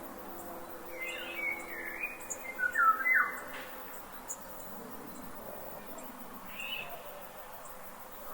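Forest ambience with birds calling: a run of quick chirping calls starts about a second in and lasts about two seconds, and a shorter call comes near the end, over a steady faint hiss.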